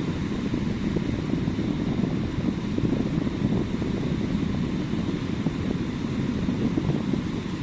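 Ocean surf breaking on a beach, a steady low rumble with no distinct wave crashes, mixed with wind buffeting the microphone.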